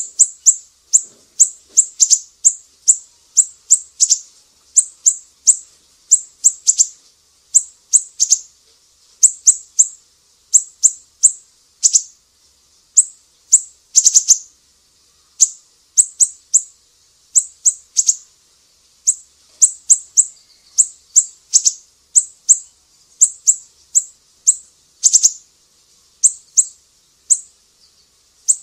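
Recorded songbird chirps from a masteran training mix of cililin, lovebird and siri-siri calls: a steady run of short, sharp, high-pitched notes, about two a second, some in quick pairs.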